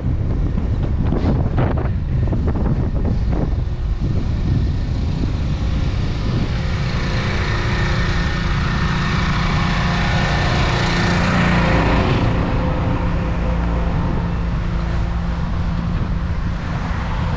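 Wind rumbling on the microphone of a moving bicycle, with road traffic; a motor vehicle passes close by, growing louder from about six seconds in and fading away after about twelve seconds.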